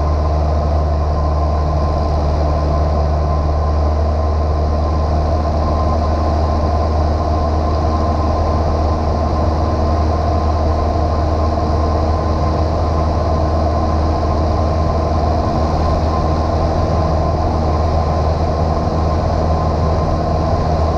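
Steady drone of a light single-engine piston airplane's engine and propeller, heard from inside the cockpit, running at a constant setting with a low hum and a thin steady whine above it.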